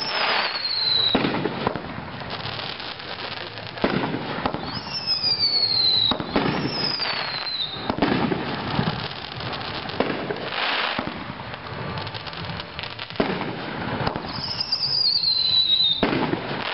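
A Firehawk 9-shot consumer fireworks tube firing its shots one after another, a sharp report every two to three seconds, with several short whistles falling in pitch among the bursts.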